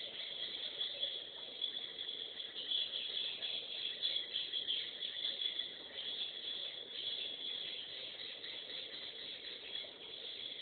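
Swiftlets chirping in a dense, steady twitter with no breaks.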